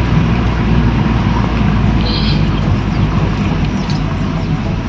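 Toyota Corolla EE100's 2E four-cylinder engine running steadily as the car is driven, a continuous engine and road drone. A short faint high sound comes about two seconds in.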